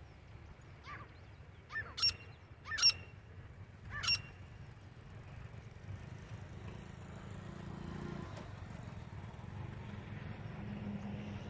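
Titar (francolin) calling: a short series of sharp, loud, rising calls in quick succession, about one to four seconds in, then stopping.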